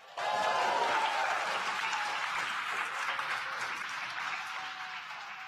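Crowd clapping and cheering, starting suddenly and slowly fading, in celebration of the confirmed stage separation.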